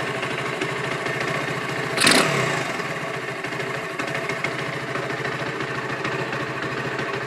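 Piranha 125cc single-cylinder four-stroke engine in a Honda CT70 running steadily, with a brief loud burst of noise about two seconds in.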